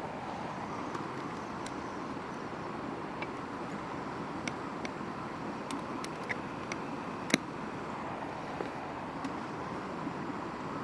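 Wood fire crackling in a campfire stand: scattered sharp pops, with one louder pop about seven seconds in, over a steady rushing background noise.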